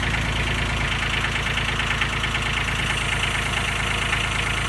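Kubota B20 tractor's diesel engine idling steadily.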